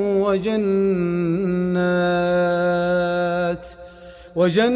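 A man's voice reciting the Quran in a melodic, chanted tajweed style, holding one long drawn-out note for about three and a half seconds. A short pause for breath follows, and the next phrase begins just before the end.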